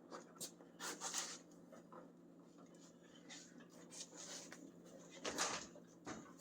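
Faint, scattered scrapes and rubs from hands and tools working a truck cab's glass out of its rubber seal, over a steady low hum.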